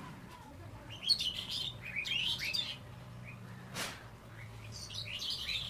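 Small birds chirping in quick twittering bursts, about three clusters of a second or less each, starting about a second in.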